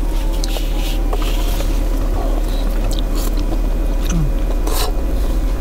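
A person chewing food between bites, with small clicks and short soft noises, over a steady low hum.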